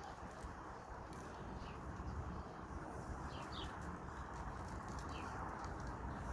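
Birds chirping outdoors: a few short, falling chirps every second or two over a steady rushing background noise.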